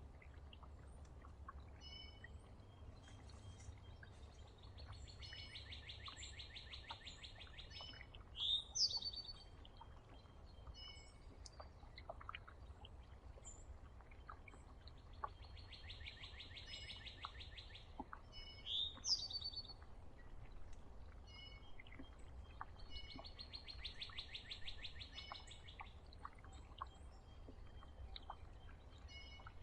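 Wild songbirds calling around a backyard feeder. A short loud sweeping song phrase comes twice, about ten seconds apart, and a rapid two-second trill comes three times, with scattered chips between. A steady low rumble runs underneath.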